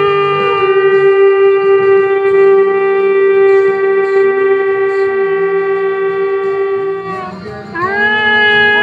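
A shofar (ram's horn) sounding one long, steady blast for about seven seconds. It breaks off briefly, then a new blast begins with a quick upward slide into its note.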